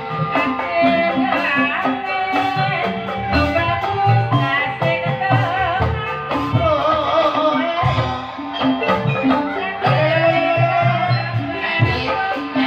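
Live dangdut-style ebeg music: drums keeping a steady beat under a melodic instrument and a singing voice.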